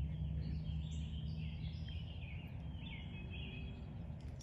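Birds chirping and calling, short repeated notes and brief gliding calls, over a steady low outdoor rumble.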